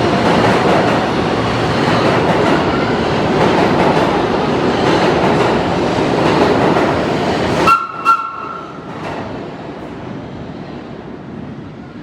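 New York City subway train running loudly. About eight seconds in, the noise drops away sharply and two short horn toots sound, followed by a much fainter rumble.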